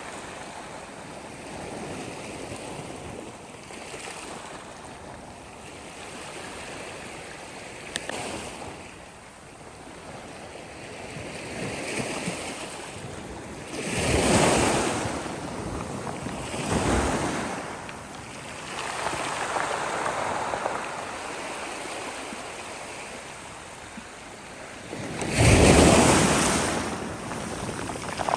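Sea waves breaking and washing up the shore, a steady rush that swells and fades, with several louder surges and the loudest wave crashing near the end.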